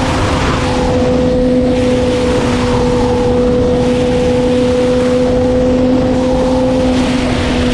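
Sport motorcycle engine running at a steady, nearly constant high pitch, under heavy wind rush on the microphone.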